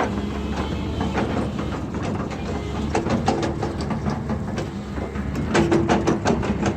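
Heavy diesel earth-moving machine running steadily, with bursts of metallic clanking and rattling about three seconds in and again near the end.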